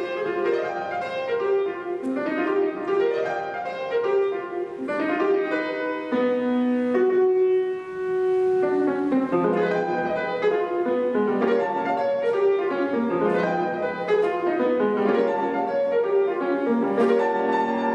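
Solo acoustic piano playing a classical piece: runs of quick notes with a longer held note about halfway through.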